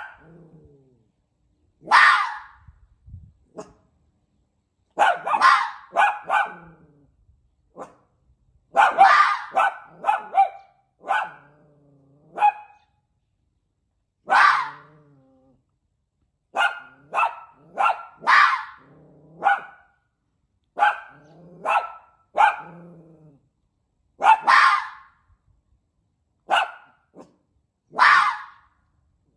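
A fox raised among dogs barking: a series of short, harsh barks at irregular intervals, some trailing off into a lower drawn-out whine.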